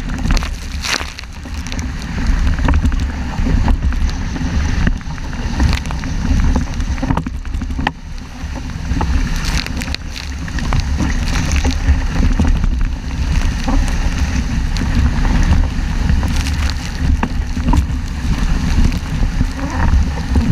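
Strong wind buffeting the microphone over the rush and slosh of water along the hull of a 470 racing dinghy sailing fast, with a sharp slap of water or spray now and then.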